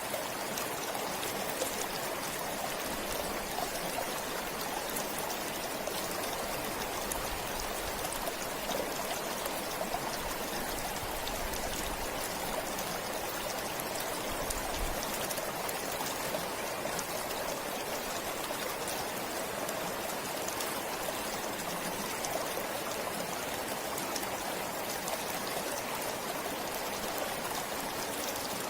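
Forest stream flowing steadily, water rushing and trickling over stones in an even rush with small splashes.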